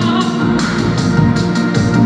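Instrumental accompaniment to a song, with no voice: sustained chords over a bass line and a light steady beat.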